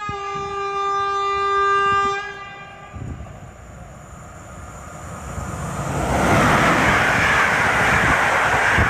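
EP07 electric locomotive's horn sounds one long, steady blast. After it, the passenger train's approach grows into a loud rush of wheels on rails as the coaches pass close by.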